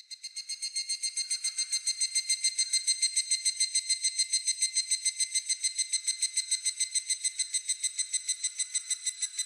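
Higurashi (evening cicada, Tanna japonensis) calling: a fast, even series of high ringing pulses, roughly eight a second, that swells over the first second or so and then holds steady.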